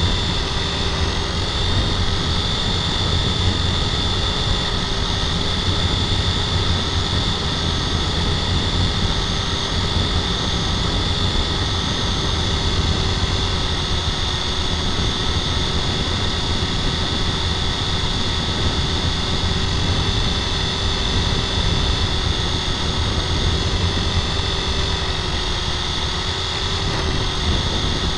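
Radio-controlled toy helicopter in flight: its motor and rotors make a steady whine with small shifts in pitch, over a constant low rumble.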